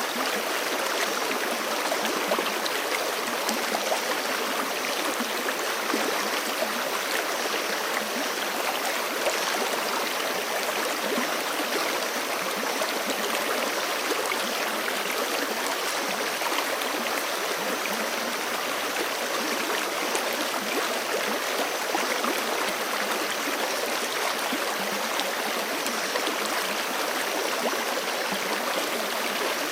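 Forest creek rushing steadily over rocks, a dense even flow of splashing and gurgling water with no pauses.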